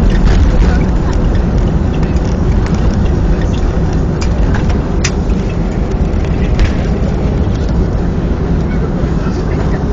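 Loud, steady rumble heard inside the cabin of a Boeing 737-300 on the runway after landing, with scattered rattles and clicks from the cabin fittings, easing slightly over the stretch.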